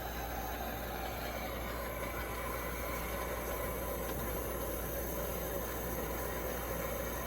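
A Coleman 523 military two-burner gasoline stove burning, its pressurised burner giving a steady, even rushing hiss.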